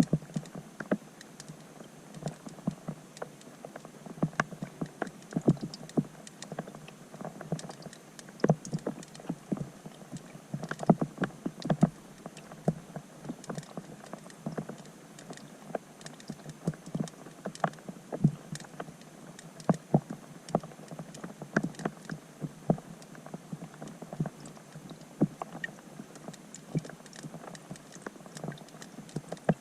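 Rain falling on a pond's surface, heard from underwater: many irregular plinks and ticks, several a second and uneven in loudness, over a faint steady hiss.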